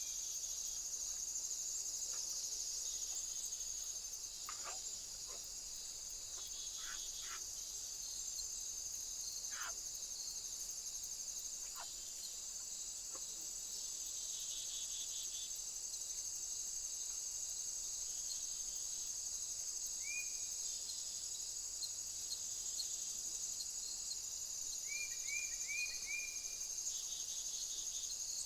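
Steady high-pitched chorus of insects trilling, with a bird giving a short rising chirp about two-thirds through and a quick run of four near the end, and a few faint clicks.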